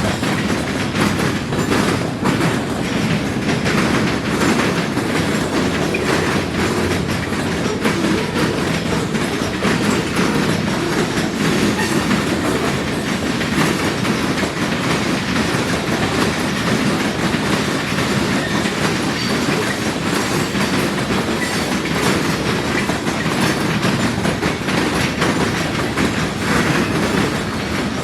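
Freight cars of a long train rolling over a railroad diamond crossing, their wheels clattering steadily over the crossing's rail gaps.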